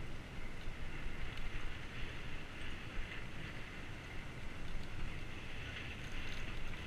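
Steady wind rushing over a GoPro's microphone, with the running noise of a bicycle being ridden.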